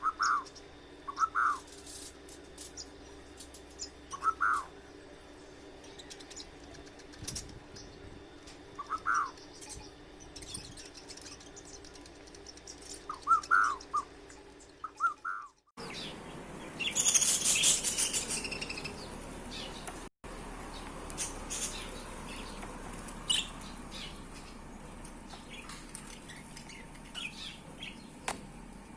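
Budgerigars chirping: short, separate calls every second or few. About halfway the sound changes abruptly to a louder, high, raspy chirping burst, followed by scattered small clicks and chirps.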